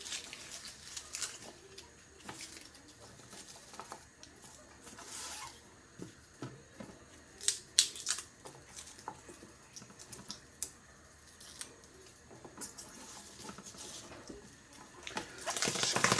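Garlic bulbs being broken apart and handled: dry papery skins crackling and tearing, with scattered light clicks and a few sharper knocks about seven to eight seconds in.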